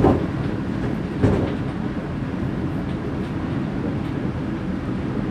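Steady running rumble of a moving regional train, heard inside the passenger carriage, with two louder knocks, one at the start and one about a second later.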